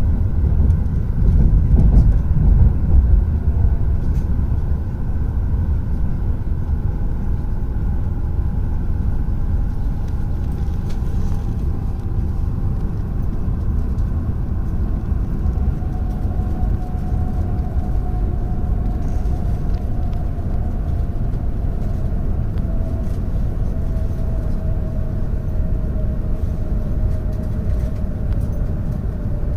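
Tohoku Shinkansen train running at speed, heard from inside the passenger car: a steady low rumble with a faint whine slowly falling in pitch. The rumble is a little louder for the first few seconds, then eases.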